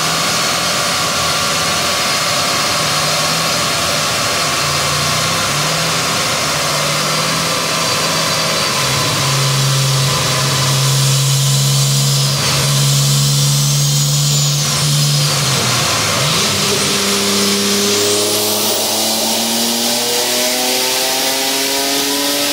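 Turbocharged Nissan 300ZX (Z31) engine running on a chassis dyno during tuning. It wavers at first, holds a steady speed through the middle, then revs up steadily under load over the last several seconds.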